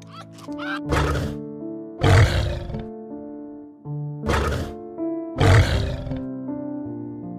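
Four loud, rough animal calls in two pairs, a short call followed by a longer one each time, over steady background music.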